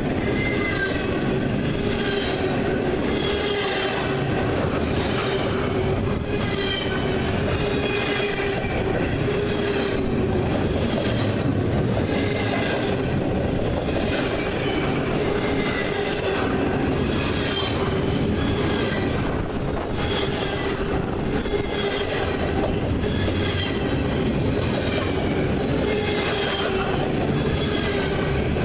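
Freight train cars rolling steadily past at close range, with a continuous rumble and a steady hum. High, wavering wheel squeal recurs about once a second.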